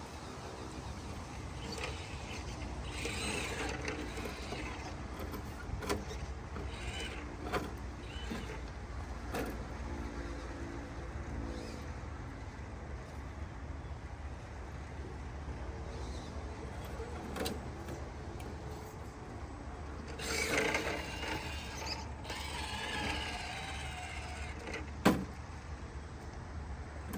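Small electric motors and steering servos of RC rock-crawler trucks whining in short runs as they crawl, with scattered sharp clicks and knocks over a steady low rumble.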